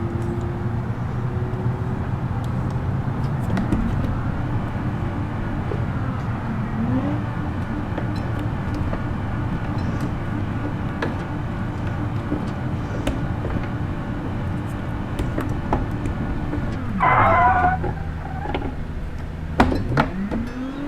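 Minivan engine running, revved up and back down several times as the gas pedal is pumped. About 17 seconds in there is a short, louder, wavering squeal.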